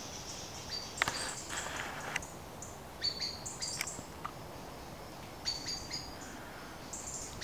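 Birds chirping in short, high-pitched calls, in a couple of clusters midway and later on, with a sharp click about a second in.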